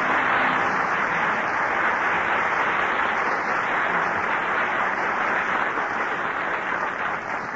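Studio audience applauding, a steady dense clapping that eases off slightly near the end, heard through an old radio broadcast recording.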